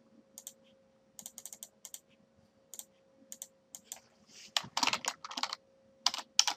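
Computer keyboard typing: scattered single keystrokes, then a quick run of fast typing about four and a half seconds in. A faint steady hum runs underneath.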